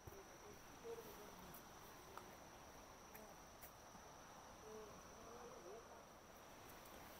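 Near silence with a faint, steady high-pitched drone of insects, crickets or the like, in forest.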